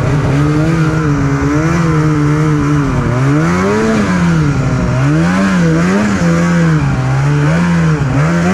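Snowmobile engine running under load, its pitch rising and falling as the throttle is worked, with a climb about three and a half seconds in and quick swings around five to six seconds.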